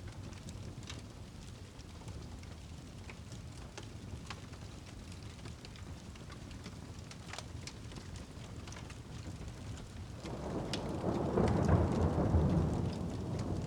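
Steady rain ambience with scattered small crackles, and a rolling thunder rumble that swells in about ten seconds in and carries on to the end.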